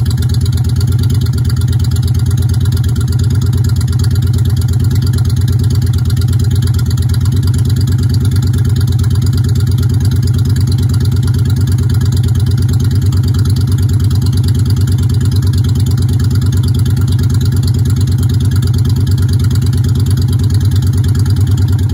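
Honda Shadow Spirit 750's V-twin engine idling steadily on a newly fitted battery, the bike running after being started following the battery swap.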